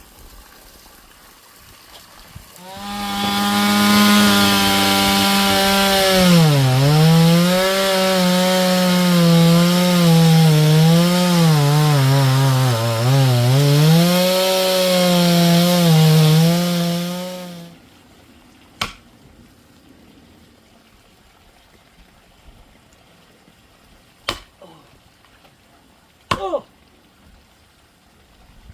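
Chainsaw running at high revs and cutting into wood for about fifteen seconds, its pitch dropping again and again as the chain bites and bogs down, then cutting off suddenly. A few sharp knocks follow.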